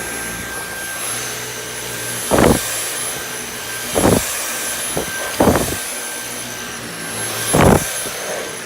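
Dyson V8 Animal cordless vacuum running at a steady whine with the small tool fitted, broken four times by short loud bursts of noise as it picks up dirt. The motor cuts off at the very end.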